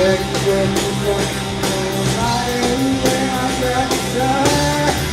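Live rock band playing an instrumental break: a bending lead electric-guitar melody over steady drums and bass.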